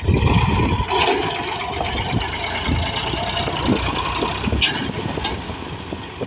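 An Al-Ghazi tractor's diesel engine running steadily, with a sharp click about four and a half seconds in.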